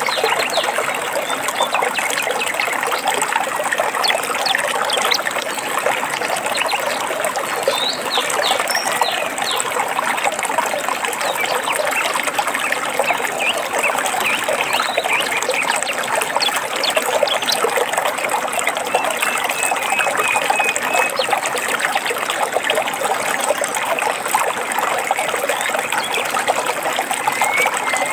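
Stream water trickling and babbling steadily over stones, with a few short bird chirps above it.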